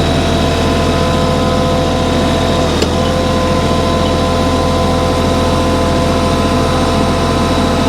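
Tractor engine running steadily at constant speed while hauling logs down a hillside trail, with a faint click about three seconds in.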